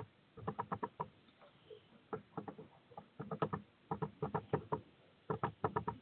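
A bird tapping and scrabbling on the feeder close to the microphone: quick clicking taps in five bursts of several taps each.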